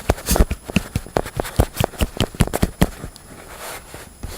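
Hands clapping in quick applause, about five claps a second, stopping about three seconds in.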